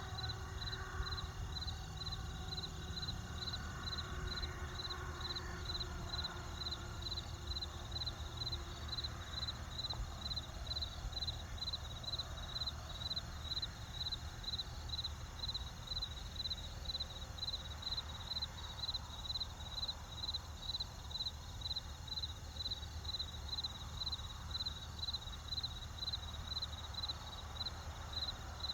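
Crickets chirping in a steady, even rhythm of about two chirps a second, over a low steady rumble.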